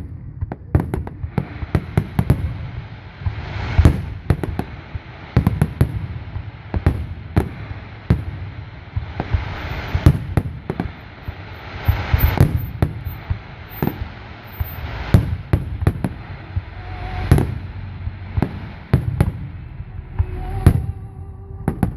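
Aerial fireworks going off in quick succession: a rapid string of loud bangs and booms, several a second, over steady crackling.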